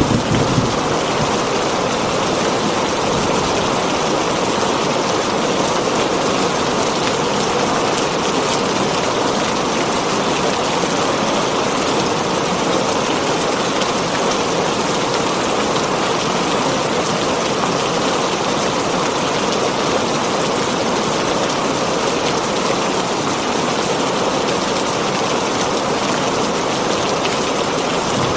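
Heavy rain falling steadily on a tin roof, an even unbroken patter with no thunder.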